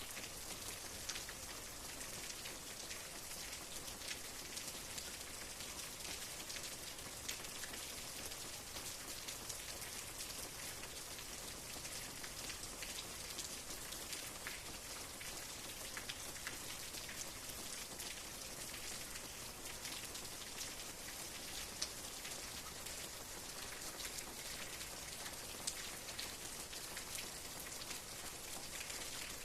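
Steady rain falling, with many individual drops pattering on a surface and a few slightly louder drops now and then.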